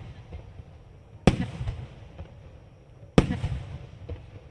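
Aerial firework shells bursting: two sharp bangs about two seconds apart, each followed by a low rumbling echo.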